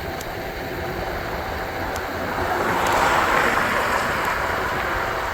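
A passing car's tyre and road noise swelling to a peak about three seconds in and fading, over a steady low wind rumble on the microphone during a bike ride.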